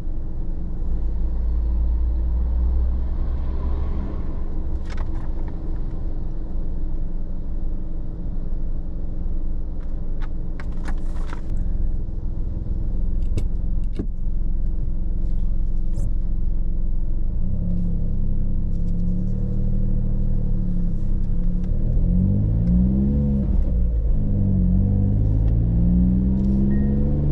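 Manual Suzuki Jimny's engine idling, heard from inside the cabin, with a few light clicks. About two-thirds of the way in, the car pulls away and the engine revs rise and drop repeatedly as it works through the gears.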